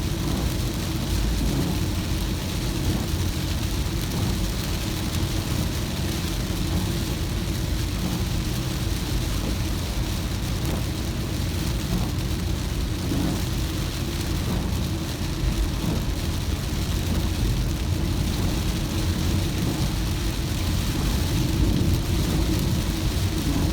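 Car driving in the rain: a steady low rumble of engine and road noise with rain hiss over it.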